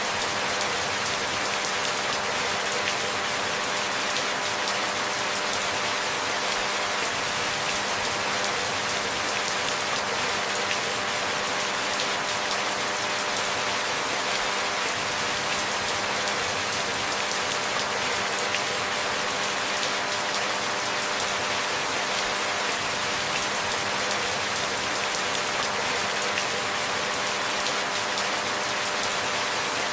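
Steady, even rainfall, a dense patter of drops with no gusts, thunder or breaks.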